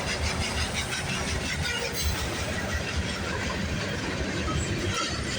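Freight train rolling past close by: a steady rumble of steel wheels on the rails, with a repeated clicking over it.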